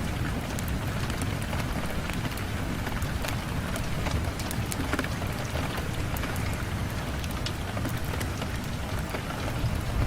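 Steady rain on a window, a continuous hiss with scattered sharp ticks and a low rumble underneath.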